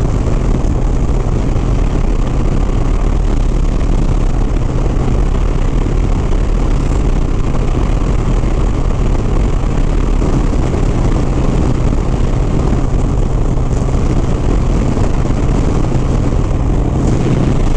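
Harley-Davidson Sport Glide's V-twin engine running steadily at highway cruising speed, a constant low drone mixed with wind and road noise, with no change in speed.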